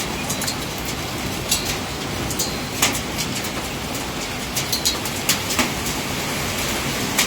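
Dense hail of small ice pellets pelting the ground: a steady heavy hiss with irregular sharp cracks of individual stones striking hard surfaces.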